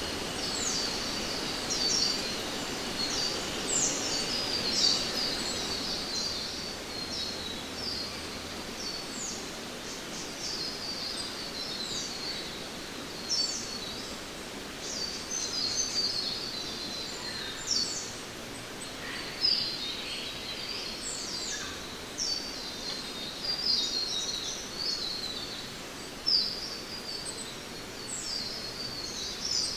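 Rainforest ambience: many birds chirping in quick, high calls, many falling in pitch, over a soft steady background hiss.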